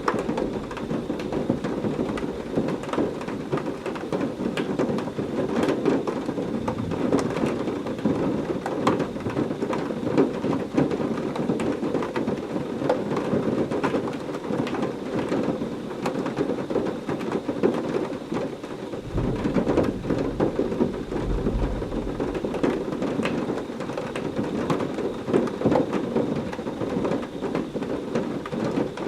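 Heavy rain falling steadily with a dense patter of drops, and a low rumble of thunder rolling in about two-thirds of the way through.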